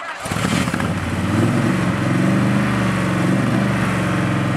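Engine of an AC Cobra-style roadster with side exhaust pipes starting up. It catches at once, the revs rise and fall a few times, then it settles into a steady idle.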